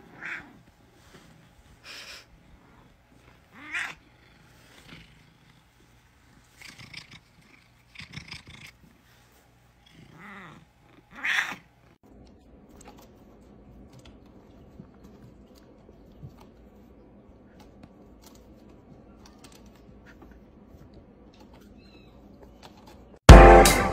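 A house cat making several short calls in the first half, the loudest about eleven seconds in, then purring faintly and steadily.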